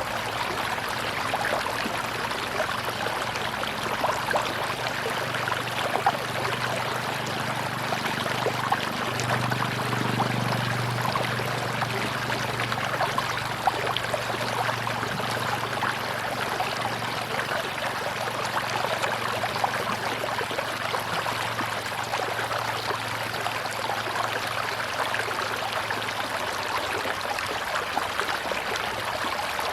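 Tropical river water flowing steadily over rocks, a continuous rushing and babbling with many small splashes. A low hum runs underneath and swells briefly about ten seconds in.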